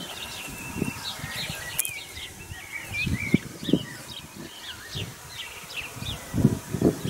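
Small birds chirping and twittering on and off throughout, with a few low thumps about halfway through and again near the end.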